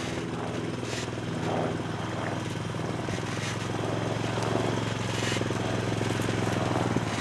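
Quad bike engine running steadily at low speed.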